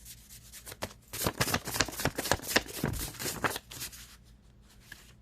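A deck of reading cards being shuffled: a quick flurry of card snaps and rustles lasting about two and a half seconds, with a few faint ticks before and after.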